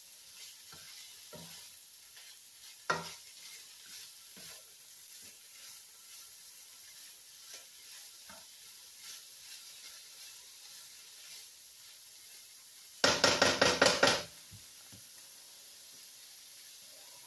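Shredded chicken, onions and peppers sizzling faintly in a skillet while being stirred, with occasional clicks of the utensil on the pan. About thirteen seconds in comes a loud run of about seven quick strokes against the pan, lasting just over a second.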